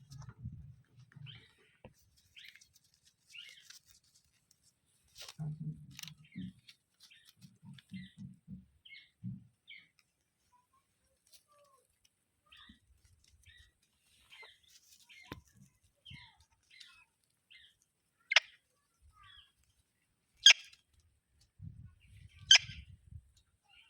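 Green parrots giving short, soft chirps scattered throughout, with low bumps of movement. Near the end come three sharp, loud clicks about two seconds apart.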